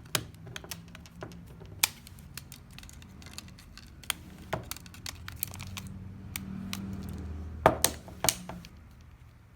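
Irregular small plastic clicks and taps as a smartphone's plastic mid-frame is pressed down and snapped back into place over the board. A cluster of louder clicks comes about eight seconds in.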